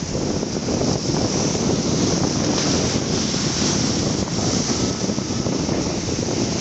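Steady wind rushing over the microphone from a moving train, with the low rumble of the train running along the track underneath.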